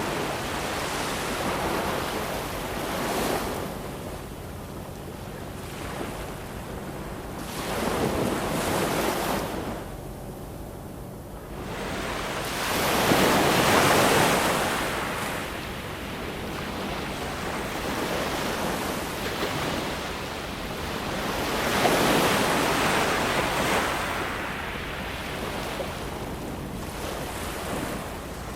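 Ocean waves breaking and washing up a shore in slow surges that swell and fade every few seconds. The biggest surges come about thirteen and twenty-two seconds in.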